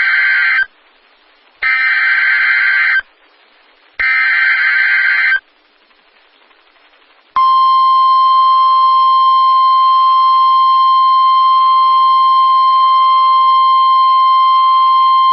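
Emergency Alert System weather alert: two full harsh, buzzing bursts of SAME digital header data, each about a second and a half long and separated by short silences, following the tail of an earlier one. About seven seconds in, the steady single-pitch NOAA Weather Radio attention tone begins and holds, signalling that a warning message follows.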